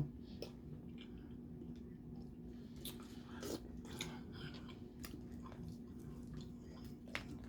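Faint chewing, with scattered small clicks and crackles from a person eating boiled shellfish.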